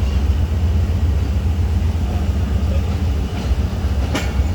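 Passenger train rumbling steadily on the rails, with a sharp click near the end.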